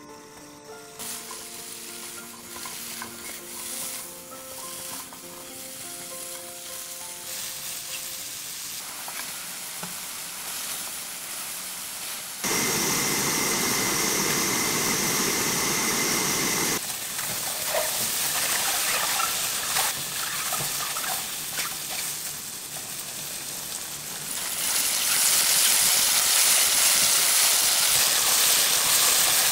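King oyster mushroom pieces sizzling as they fry in a hot nonstick pan and are stirred with a silicone spatula. The sizzle starts faint under soft background music that fades out in the first few seconds, jumps louder about twelve seconds in, and is loudest near the end.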